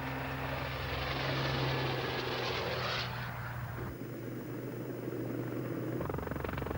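Westland Lynx helicopter running, a steady rotor and turbine drone over a hiss. The sound changes abruptly a few times: the hiss drops away about three seconds in, and the deepest rumble cuts out briefly from about four to six seconds.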